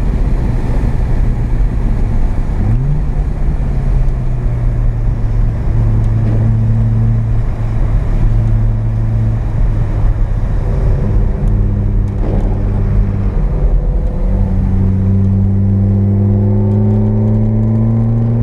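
Carbureted 12A two-rotor rotary engine of a Mazda RX-7 (FB) running hard under load, heard from inside the cabin. Its note holds fairly steady with a few brief lifts off the throttle, then climbs steadily in pitch over the last few seconds as the car accelerates.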